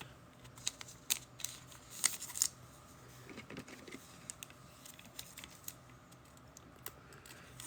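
Trading cards being handled: scattered light clicks and rustles of cards and plastic holders, over a faint low hum.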